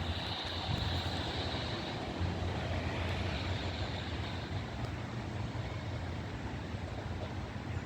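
Class 810 Aurora bi-mode train pulling out of the station, a steady low rumble with a faint high whine that fades over the first few seconds.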